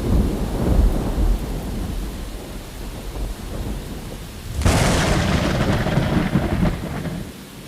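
Thunder: a low rumble dying away, then a sharp crack of thunder a little past halfway that rolls on as a rumble and fades near the end.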